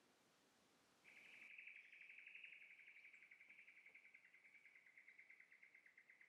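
A faint, high-pitched trill of rapid even pulses at one steady pitch from a calling bush animal. It starts about a second in and slowly fades over about five seconds.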